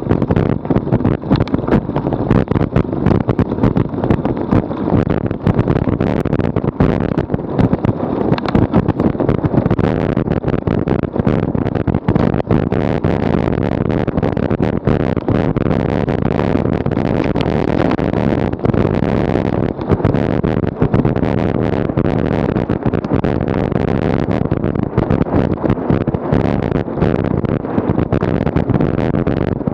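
Wind buffeting the microphone of a bicycle-mounted Garmin VIRB action camera while riding at speed: a loud, steady low rush, broken constantly by short crackling knocks.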